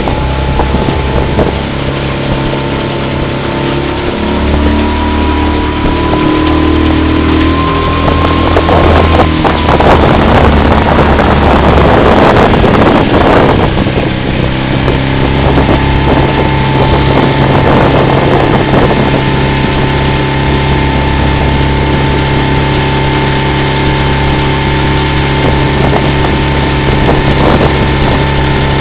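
Motorboat engine running steadily under way, its note climbing slightly and then settling back about nine seconds in. Wind buffets the microphone for a few seconds in the middle.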